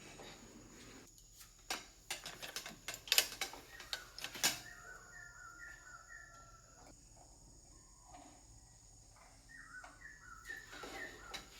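A run of sharp clicks and knocks, then a small bird chirping in short repeated notes, in two bursts a few seconds apart.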